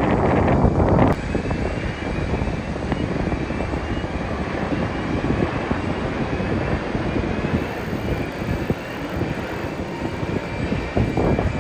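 Jet airliner landing, its engines a steady rumble with a faint high whine. Wind buffets the microphone for about the first second and again near the end.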